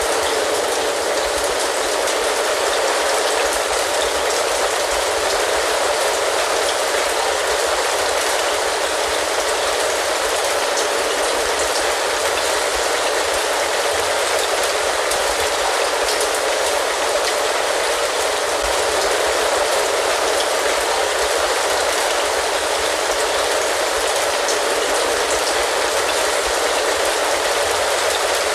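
Steady rain falling, an even hiss with a fine patter of drops that does not change in level.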